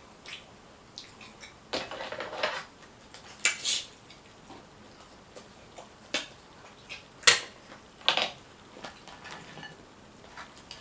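Irregular sharp cracks, clicks and crackles from crab shells being cracked and picked apart while eating a seafood boil. The loudest crack comes about seven seconds in.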